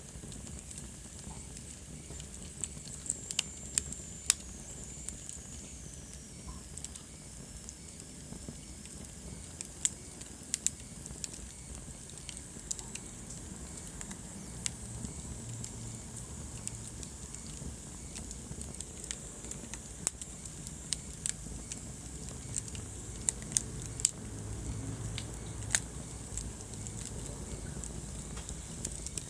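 Wood fire burning in a fireplace: a low steady rumble of flames with irregular sharp crackles and pops. A few seconds in, a faint high hiss slides downward, like gas escaping from a burning log.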